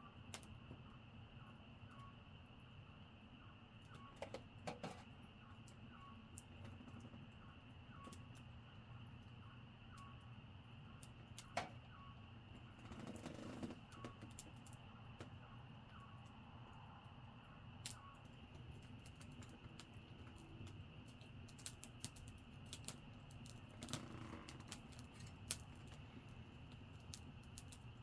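Wood campfire crackling faintly, with sparse irregular pops and snaps. Behind it, insects chirp softly and steadily.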